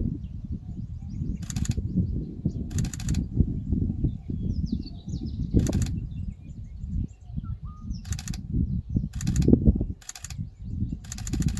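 Wind buffeting the microphone, an uneven low rumble throughout, with short hissing bursts every second or two.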